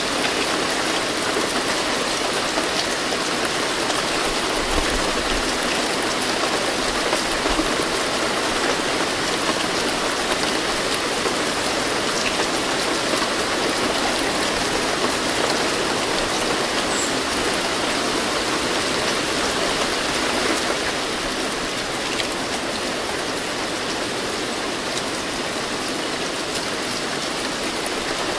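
Steady heavy rain, a dense even hiss with scattered drop ticks, easing slightly about two-thirds of the way through.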